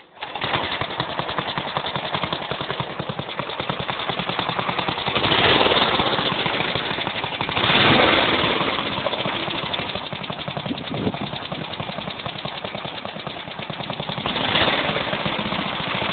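Small 8 hp go-kart engine starting up and running. It swells louder three times, about five, eight and fourteen seconds in, as it is revved.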